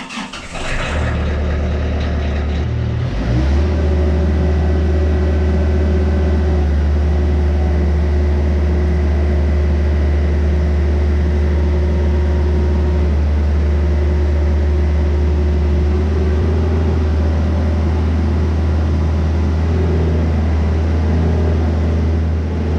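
Kubota KX-91-2 mini excavator's diesel engine starting up, its speed stepping up about three seconds in, then running steadily. The machine is being run to test freshly rebuilt and reinstalled hydraulic rams.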